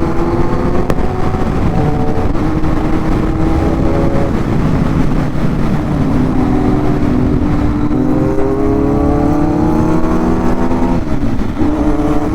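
Kawasaki inline-four sport motorcycle running on the road, its engine pitch climbing slowly under acceleration, dropping sharply about eleven seconds in at an upshift, then climbing again. Heavy wind rumble on the microphone.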